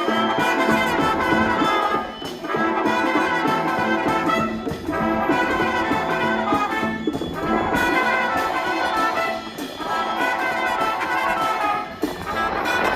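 School brass band playing live, a full ensemble sound in phrases broken by short breaks every two to three seconds.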